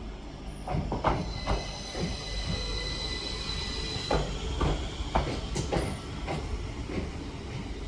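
Northern Class 333 electric multiple unit arriving at the platform: a low rumble with wheels clacking irregularly over the track and a thin, steady high whine.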